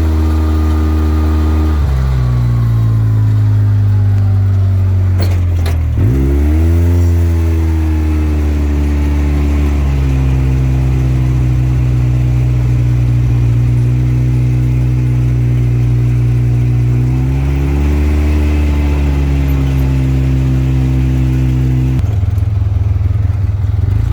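A vehicle engine runs steadily, its pitch shifting up and down several times as the engine speed changes, with a dip and a rise about six seconds in.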